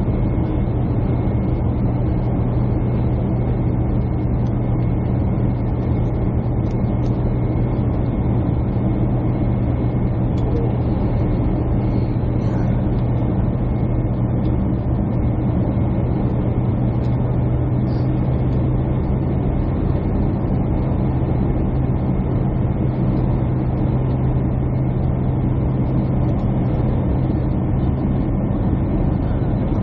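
Steady airliner cabin noise: jet engines and airflow heard from inside the cabin as an even rushing roar with a constant low hum.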